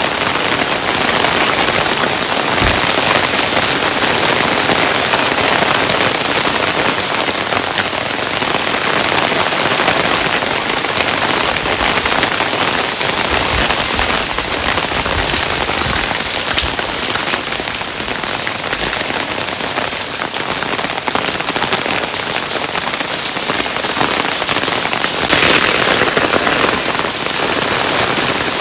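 Hailstones falling thickly and pattering on a surface, a dense steady hiss of countless small ticks, a little louder a few seconds before the end.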